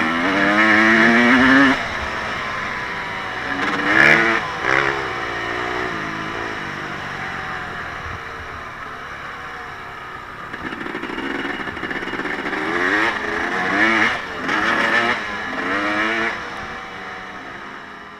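Off-road vehicle engine revving hard in repeated bursts, rising in pitch, at the start, about four seconds in and again from about 13 to 16 seconds in, with a steadier drone in between. It fades away near the end.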